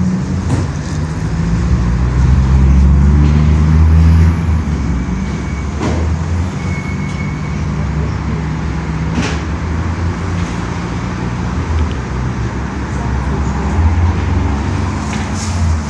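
Steady low rumble of a vehicle running, with a few sharp clicks.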